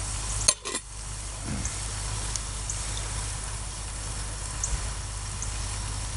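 Sausage sizzling in a pan over a campfire, a steady hiss with scattered small crackles, and one sharp click about half a second in.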